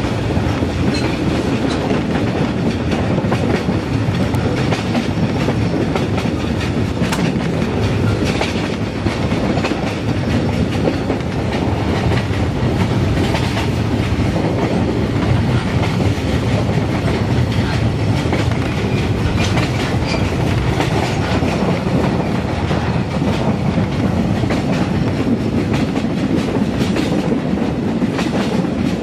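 A TAZARA passenger train running along the track, heard from on board: a steady rumble from the wheels and coaches with scattered light clicks.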